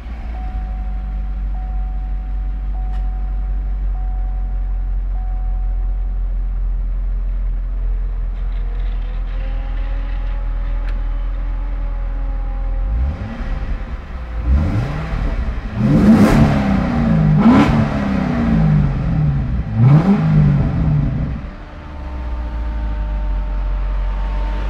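2009 Hertz Corvette ZHZ's LS3 V8 idling steadily through its exhaust, then revved in about five quick blips, each rising and falling, from about halfway in before dropping back to idle near the end.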